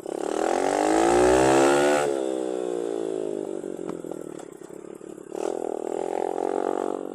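110cc semi-automatic mini dirt bike's single-cylinder four-stroke engine pulling away under throttle. The revs climb for about two seconds, drop sharply, wind down, then rise again about five and a half seconds in.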